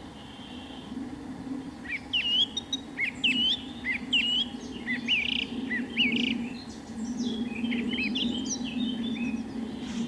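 Birds chirping: a quick series of short, high, hooked chirps begins about two seconds in and turns into denser overlapping chatter toward the end, over a steady low hum.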